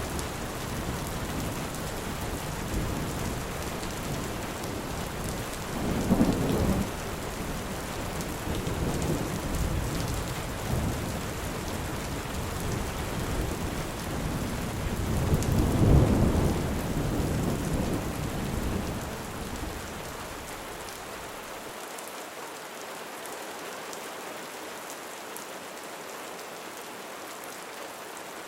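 Heavy rain falling steadily with thunder rumbling underneath, swelling into two louder peals about six and sixteen seconds in. For the last several seconds the deep rumble stops and only the hiss of the rain is left.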